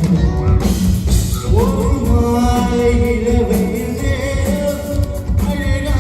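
Live band music, with drums, bass and a singer who glides up into one long held note about a second and a half in.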